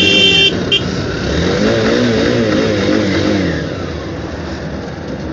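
Highway traffic jam heard from a motorcycle: a steady vehicle horn cuts off about half a second in, then a wavering tone rises and falls for about two seconds over the running engines of the surrounding traffic.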